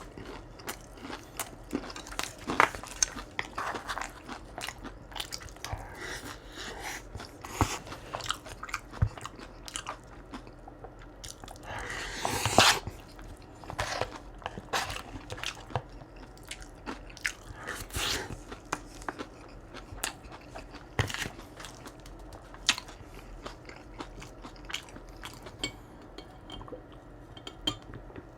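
Close-miked chewing of crispy fried food: a steady run of sharp, crackly crunches, with one louder crunch about twelve seconds in.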